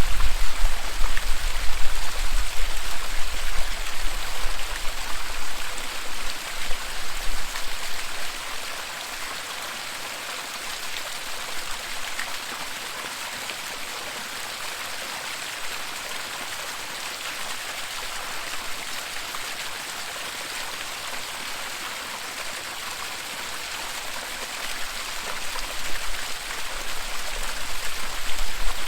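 Waterfall rushing steadily, a continuous hiss of falling and splashing water. A deep low rumble sits under it for the first several seconds, fades away, and comes back near the end.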